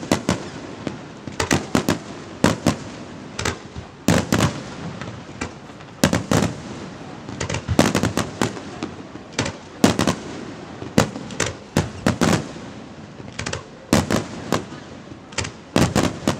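Aerial fireworks shells bursting in a continuous barrage, with sharp bangs often in quick clusters of two or three, and a rumbling echo hanging between them.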